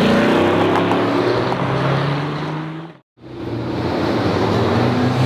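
Car engine running, its pitch rising over the first couple of seconds, cut off abruptly about three seconds in and then heard again after the edit.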